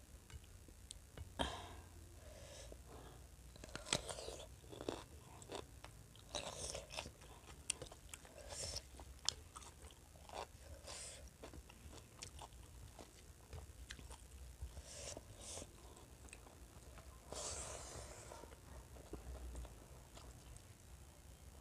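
Close-up chewing and mouth sounds of a person eating rice with curry by hand, with scattered short clicks and smacks. Fingers mix the rice and gravy on a steel plate between mouthfuls.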